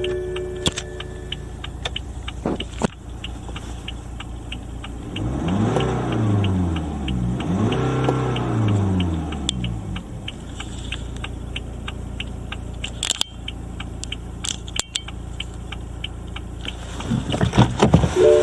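BMW B47C20A 2.0-litre four-cylinder turbodiesel idling with a fine, even ticking clatter, revved up and let fall back twice in the middle, with a few sharp clicks later.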